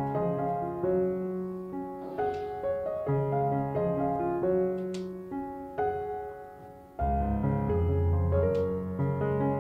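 Background piano music: a gentle melody of single notes over chords, with deeper bass notes coming in about seven seconds in.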